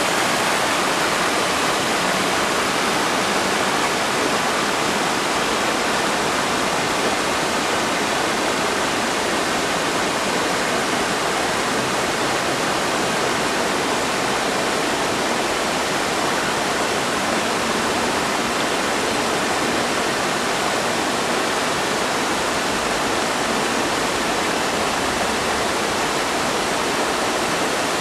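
Waterfall pouring steadily into a pool, a continuous rush of falling water.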